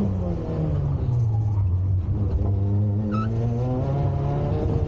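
Peugeot 106 Rallye's four-cylinder engine at rally pace, heard from inside the cabin: its pitch drops slightly in the first second, holds steady, then rises over the last two seconds as the car accelerates.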